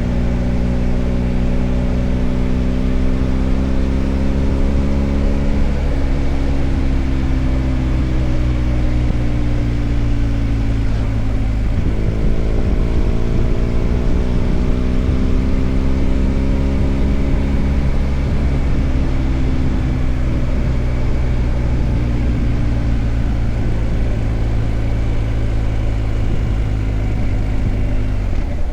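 BMW R1250 GS Adventure's boxer-twin engine running under way, its pitch easing down, stepping down about six seconds in, then climbing again from about twelve seconds as the bike pulls away once more.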